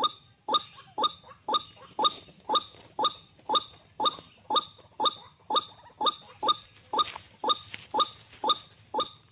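White-breasted waterhen call played as a lure from a speaker: one sharp, identical note repeated evenly about twice a second.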